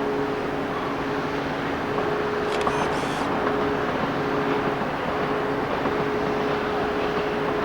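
BR Class 60 diesel locomotive running steadily, a constant two-note hum over an engine rumble.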